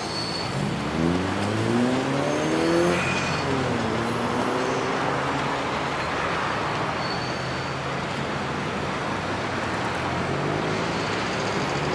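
A road vehicle's engine accelerating: its pitch rises for about three seconds, drops as at a gear change, then runs steadily, and rises again near the end. Steady rolling noise lies under it.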